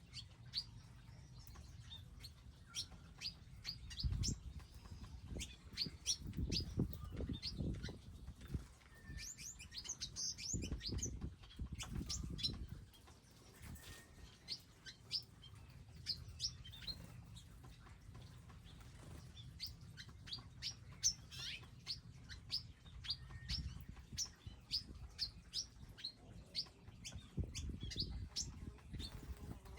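Small wild birds at garden feeders chirping, many short high chirps in quick succession. Several low rumbles come and go in between.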